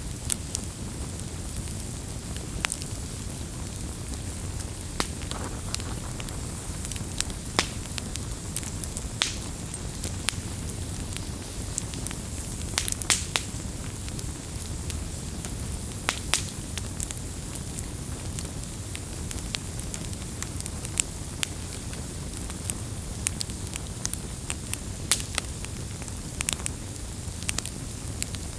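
Wood campfire burning: a steady low rush of flame with frequent, irregular sharp crackles and pops, a few of them louder.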